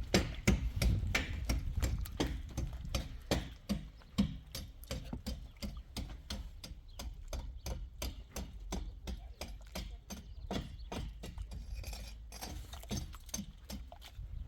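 Quick, regular knocking, about four sharp strikes a second, louder in the first few seconds, over a low rumble.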